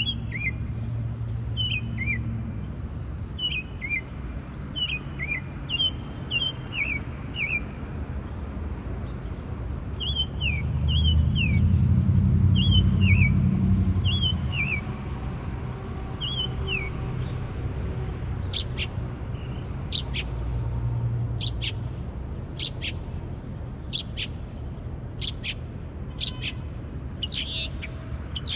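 Bird chirping repeatedly, changing its calls: short falling chirps about once a second in the first half, then sharp, very high, thin notes in the second half. A low rumble underneath swells in the middle.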